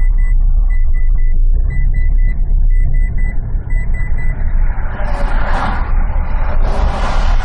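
A car being driven, heard through an in-car camera's microphone as heavy low engine and road rumble. A high beeping tone sounds on and off through the first half, and broad hissing noise swells up twice in the second half.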